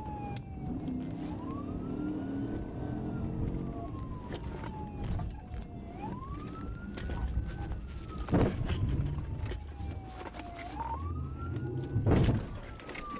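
Police siren on a slow wail, rising and falling about every five seconds, over steady engine and road rumble. Two loud knocks cut through, about eight and twelve seconds in.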